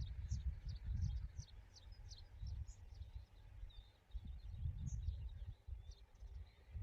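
Small birds chirping, a quick run of short high calls in the first couple of seconds and scattered ones after, over gusty wind rumbling on the microphone.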